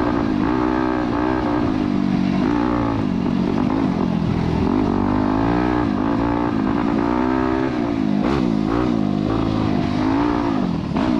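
Dirt bike engine being ridden hard, its pitch rising and falling again and again as the rider revs and shifts through the throttle.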